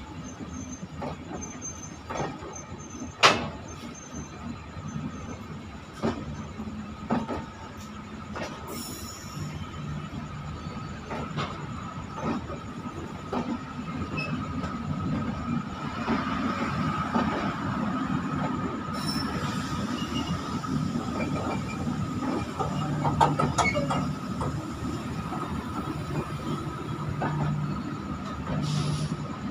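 Train passing at close range, its wheels rolling on the rail with a steady rumble and a continuous high ring, broken by irregular sharp clicks and knocks. One loud knock comes about 3 seconds in, and the rumble grows louder from about halfway.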